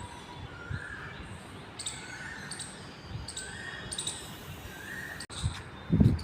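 A bird calling over and over, short level notes about once a second. A loud low rumble of handling or wind on the microphone comes in near the end.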